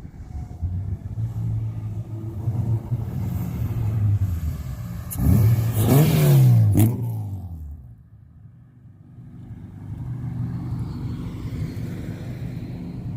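Car engine accelerating on a test drive. It is loudest about five to seven seconds in, where the pitch rises and then falls, drops away briefly, then builds again. The engine has a hiccup near 3,000 rpm that new coil packs and spark plugs have not cured.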